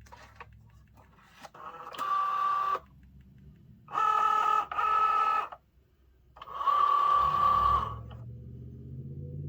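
Cricut Joy cutting machine's motors running in four short moves, each a steady mechanical whine that starts and stops abruptly, the second pair back to back.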